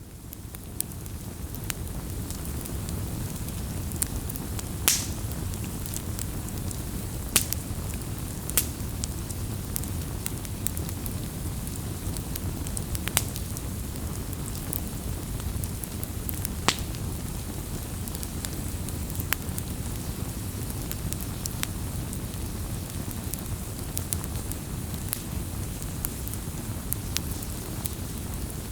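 Wood fire crackling: irregular sharp pops and snaps over a steady low rush of burning. It fades in at the start.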